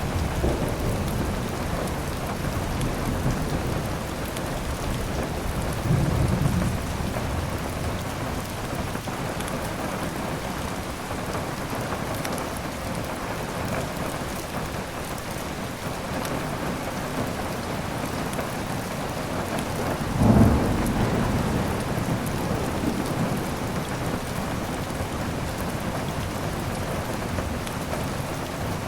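Steady heavy rain with thunder rumbling twice: a short low rumble about six seconds in and a louder one about twenty seconds in.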